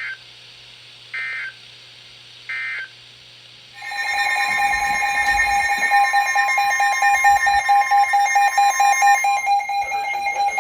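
NOAA Weather Radio alert signalling. First come three short bursts of SAME digital data tones, about 1.3 s apart. About a second later a loud, steady alert tone starts and holds for about seven seconds before cutting off, marking the start of a new warning broadcast.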